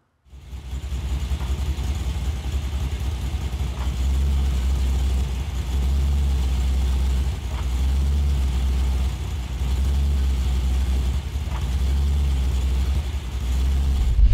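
A car's engine and drivetrain running, heard from underneath at the rear differential: a steady low rumble that swells and eases in long stretches several times. Three faint light clicks come about four seconds apart.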